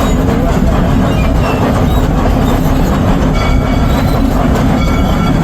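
Narrow-gauge ELI 4-4-0 steam train rolling along its track: a steady, heavy rumble of wheels and cars on the rails, with faint high squeals joining about three seconds in.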